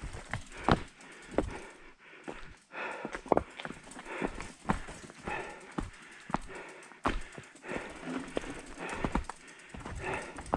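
Footsteps on loose trail rock as a mountain bike is walked through a rock garden, with uneven knocks and clatters from the bike and rocks, about one or two a second.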